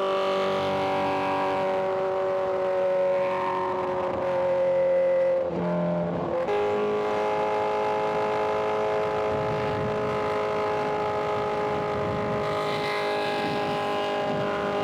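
Inline-four sport bike engine running at steady high revs under way. About six seconds in the engine note breaks and dips briefly, as at a gear change, then settles to a steady, slightly lower pitch.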